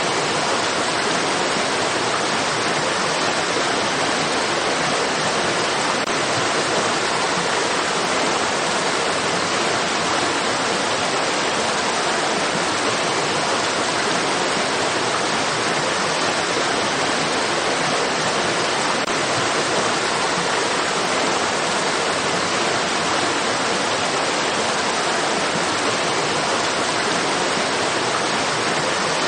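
Flowing stream water rushing steadily, an even hiss with no changes.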